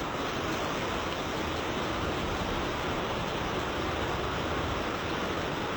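Steady rushing storm noise during typhoon flooding, even and unbroken, with no distinct knocks or calls.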